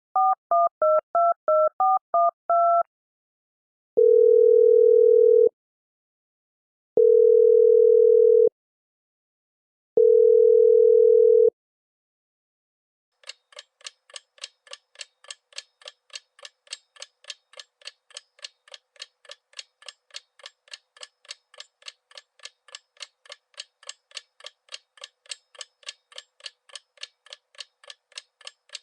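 A telephone keypad dialing a number in touch-tone beeps, then three long, even tones from the line, each about a second and a half with equal gaps between. After a pause, a fast, even ticking of about three ticks a second starts and keeps going.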